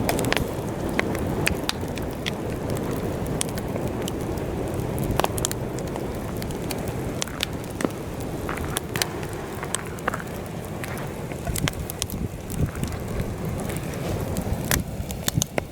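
Campfire crackling and popping with many sharp snaps, under a steady low rush of heavy wind on the microphone.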